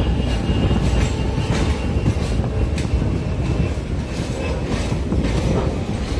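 Passenger train coaches running on the rails: a steady heavy rumble with irregular clacks over the rail joints. A faint high wheel squeal can be heard through the first half.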